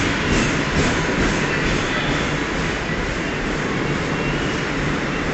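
Mumbai suburban EMU local train rolling past the platform, its wheels clacking over rail joints in a quick even beat about twice a second for the first second or two. After that a steady rumble of wheels and running gear takes over.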